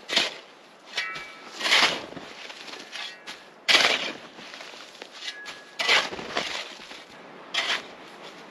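Five short, sharp impacts spaced about two seconds apart, outdoors in a camp setting.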